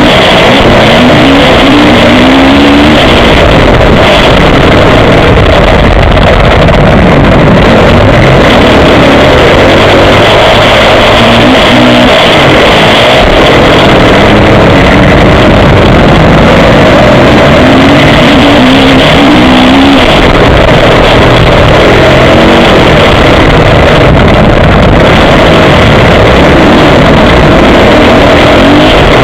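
Motocross bike engine heard from an onboard action camera, very loud throughout, its pitch rising and falling again and again as the rider opens and closes the throttle.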